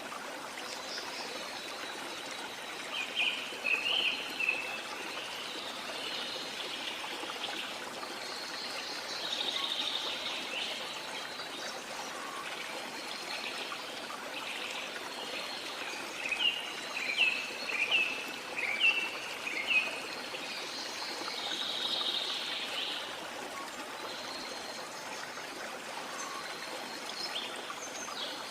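Steady rush of running water, with songbirds calling over it: a quick cluster of chirps a few seconds in, a run of seven or eight short falling notes a little past the middle, and softer warbling phrases in between.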